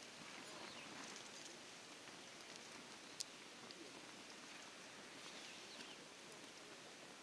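Near silence: faint outdoor hiss with a single sharp click about three seconds in.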